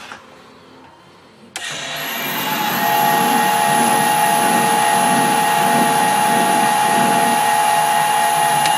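Metal lathe starting up about a second and a half in, its VFD-driven motor and gearing ramping up to speed over a second or so and then running steadily with a mid-pitched hum and a thin high whine. There is a click near the end.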